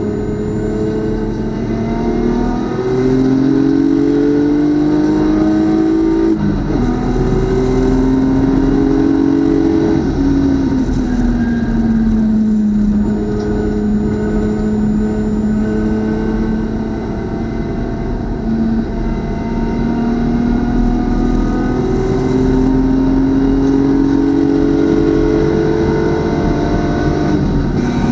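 BMW club race car's engine under hard acceleration on track: the pitch climbs, drops sharply at a gear shift about six seconds in, falls away while slowing around ten to thirteen seconds in, then climbs again through the second half.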